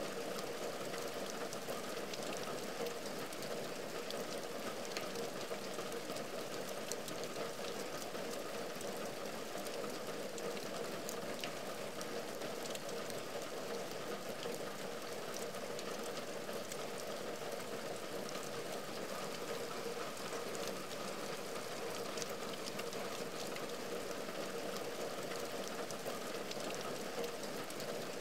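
Steady rain falling on a window and its outer ledge: an even hiss with many small, scattered drop ticks.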